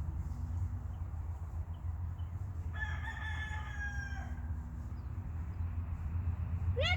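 A long animal call, held at one pitch for about a second and a half and dropping slightly at the end. A second, shorter call rises and falls near the end, over a steady low hum.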